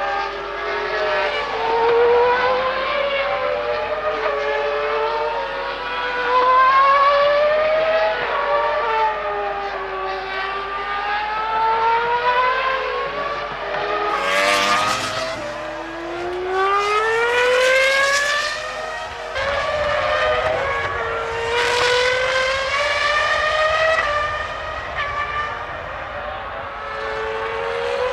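Formula One cars' 3.0-litre V10 engines screaming at high revs. Several engines overlap, their pitch climbing and dropping through gear changes. Cars pass close by three times, about 14, 18 and 22 seconds in.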